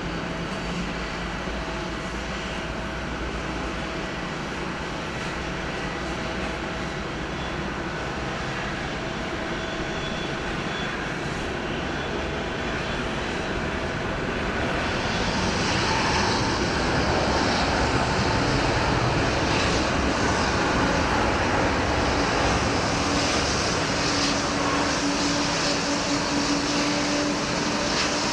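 Airliner jet engines running with a steady hum and rush, growing louder and more hissing about halfway through.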